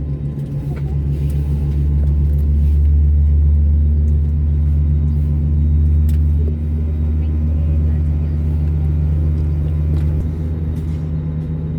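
Steady low droning hum of an Airbus A320neo heard from inside the passenger cabin during pushback and engine start, with a few faint ticks. The level dips slightly about six and a half seconds in and shifts again about ten seconds in.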